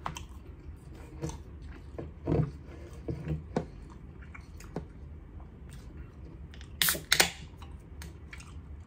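Chewing a mouthful of New York chopped cheese sandwich with soft, wet chewing sounds. About seven seconds in there are two sharp cracks with a short hiss as the pull tab of a tall Arizona can is opened.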